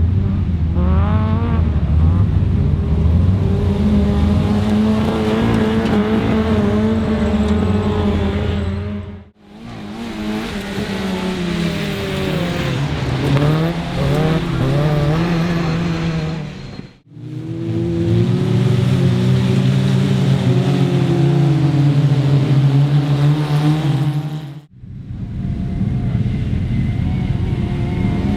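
Autograss racing car engines at hard throttle, the pitch climbing and dropping with revving and gear changes, in four short clips that cut off abruptly one after another.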